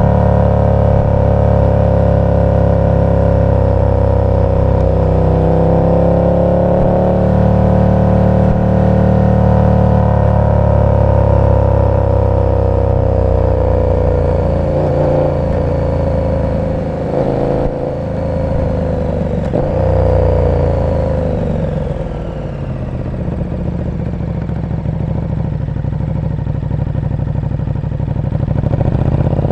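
KTM 1290 Super Duke R's 1301 cc V-twin, fitted with an aftermarket exhaust, running steadily under throttle. The revs waver and then drop about two-thirds of the way through as the bike slows to a low, easy beat. They pick up again near the end.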